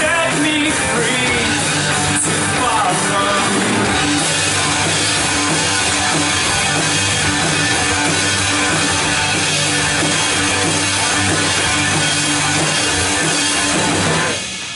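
Full live band playing a loud rock song with electric guitars and drums, ending abruptly near the end.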